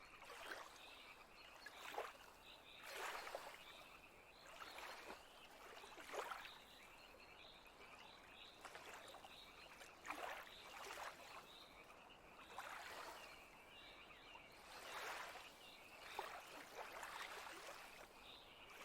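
Faint lake water lapping in soft, irregular washes every second or two, with frogs croaking faintly in a steady chorus behind.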